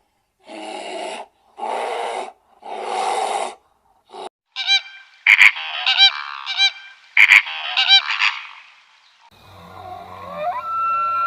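A series of loud, harsh honking bird calls in quick succession, goose-like, preceded by three short rasping bursts. Near the end a rising tone levels off into a steady one.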